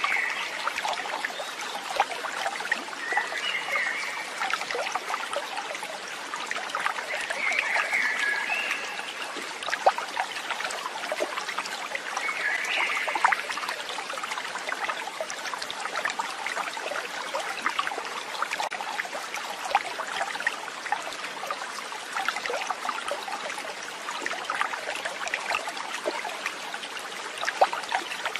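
A stream babbling steadily over stones, with short high chirps four times in the first half.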